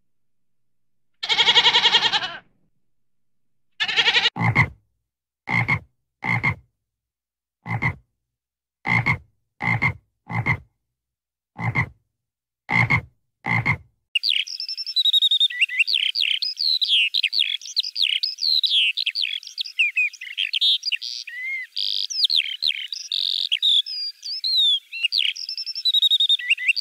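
A goat bleats once near the start. A tree frog then gives about a dozen short croaks, unevenly spaced. From about halfway through, a lark sings a long, fast, high warbling song.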